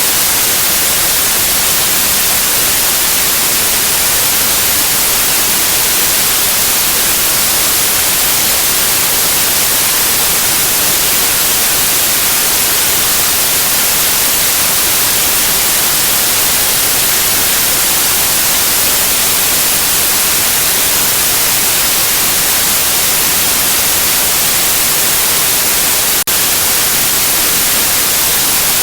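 Steady white noise: a loud, even hiss, strongest in the treble, with one momentary dip near the end.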